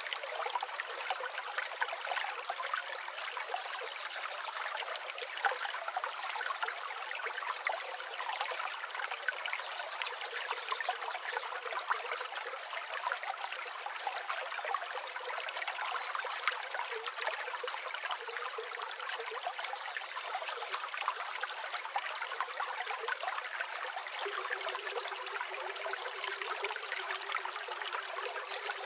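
A river flowing, a steady rush of water with many small trickles.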